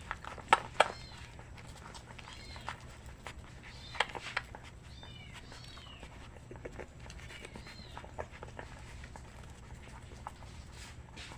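Puppies whining in short, high squeaks, several times over. Sharp knocks come about half a second in, just under a second in and about four seconds in.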